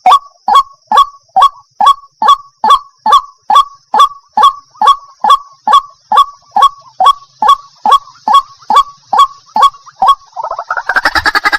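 White-breasted waterhen (ruak-ruak) calling: a steady, evenly spaced series of short downward-sliding notes, about two and a half a second. About ten seconds in it breaks into a louder, denser run of rapid harsh notes. The recording is labelled as a female calling to a male.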